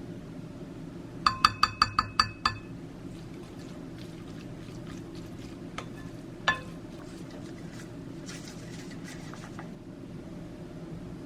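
Kitchen dishes clinking: a quick run of about seven ringing taps a little over a second in, then a single clink midway, over a steady low hum.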